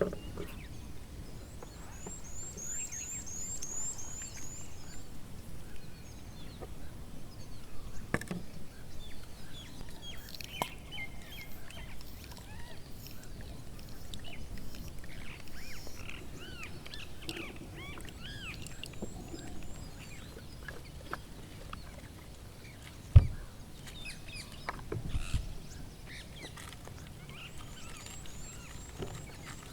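Small birds calling: a quick run of high falling notes near the start and scattered chirps through the middle. A sharp low thump about two-thirds of the way through is the loudest sound, followed by a softer one a couple of seconds later.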